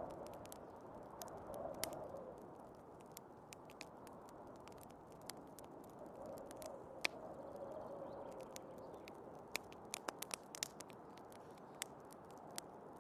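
Wood fire crackling in a fireplace, with sharp irregular pops that come in a quick cluster near the end, over a steady wind noise that swells in slow gusts.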